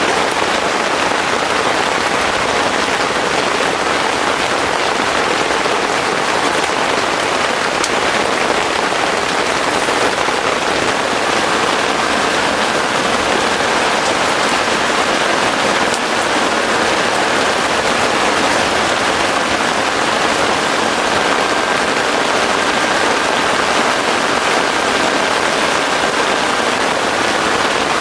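Heavy rain falling steadily, a dense even patter with no breaks.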